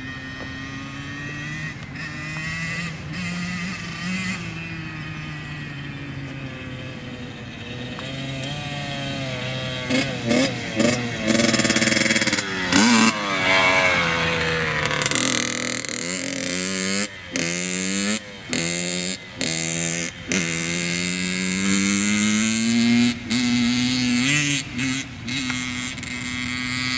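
Motorbike engines being ridden, their pitch rising and falling again and again as the throttle is opened and closed, with quick repeated revs through the middle.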